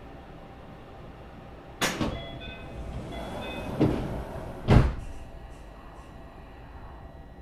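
Doors of a Tokyo Monorail 2000 series car sliding shut at a station stop, with three thuds about two seconds apart, the last one the loudest, over the car's low steady hum.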